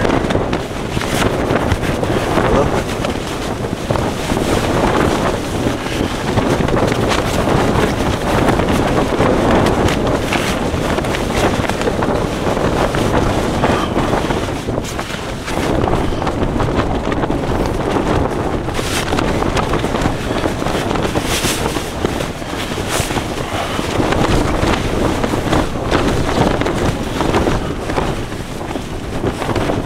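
Gale-force wind blasting the microphone, loud and constant, swelling and easing in gusts. A few short sharp rustles come about two-thirds of the way through.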